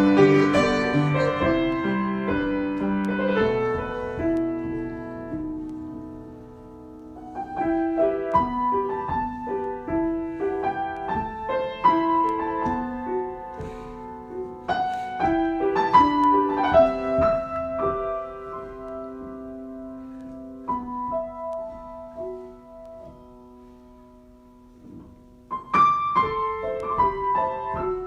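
Solo piano improvisation: loud, dense chords at first that die away, then slower single notes and phrases, growing soft with long sustained notes before a new burst of notes near the end.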